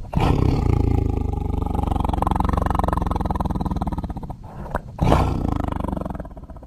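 Tiger roaring: one long, deep roar of about four seconds, then after a short break a second, shorter roar that fades away.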